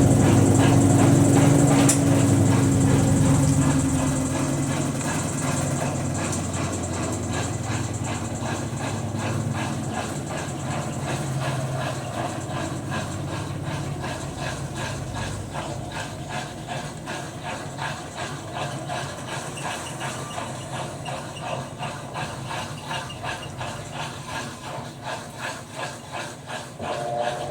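Electrolux LTE12 washing machine in its spin cycle: a steady whirring hiss with a regular pulse. It grows gradually quieter, and the pulsing stands out more clearly near the end.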